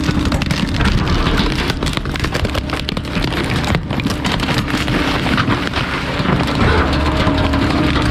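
Garbage truck's compactor crushing bulky waste: a dense, continuous crackle of material breaking and splintering over the truck's steady hum.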